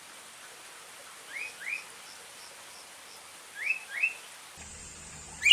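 Sooty-headed bulbul calling: two pairs of short, rising whistled notes, with faint higher chirps between them over a steady hiss. A low hum comes in near the end.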